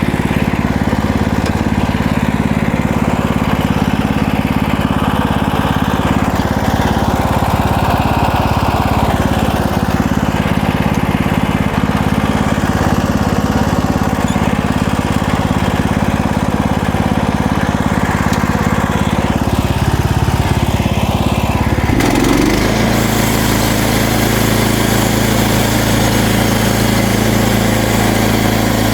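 MechMaxx portable band sawmill's gasoline engine running steadily, driving the band blade through a cedar log to take off the top slab. About 22 seconds in the engine's note changes pitch and settles at the new speed.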